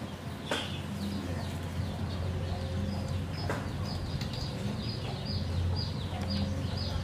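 Birds chirping in the background: short, high notes that fall in pitch, several every second, over a steady low hum. Two sharp clicks, about half a second in and again about three and a half seconds in.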